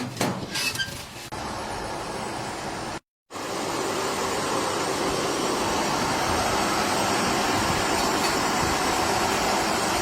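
Steady running noise of poultry processing machinery, with a few clicks at the start. It breaks off in a short gap about three seconds in, then resumes.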